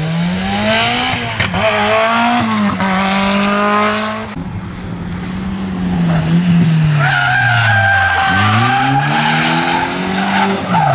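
Rally car's engine revving hard, rising in pitch through gear changes, then easing off and picking up again. About seven seconds in, a steady high tyre squeal joins as the car slides.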